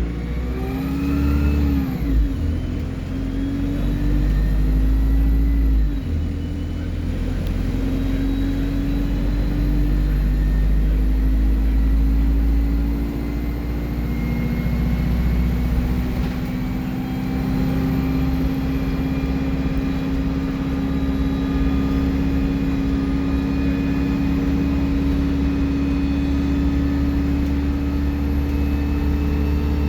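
Alexander Dennis Enviro 200 bus diesel engine pulling under acceleration, with a high turbo whistle rising and falling above it. The engine note drops briefly about two seconds in and again about six seconds in, like gear changes, then climbs slowly and steadily.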